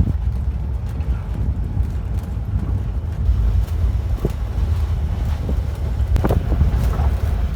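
Wind buffeting the microphone over the steady low rumble of a moving tour vehicle.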